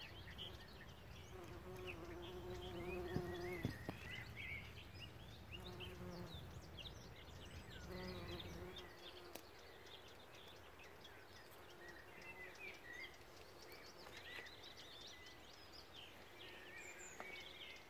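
Bees buzzing as they fly close by, a steady hum loudest over the first four seconds and back briefly about six and eight seconds in, with birds singing throughout.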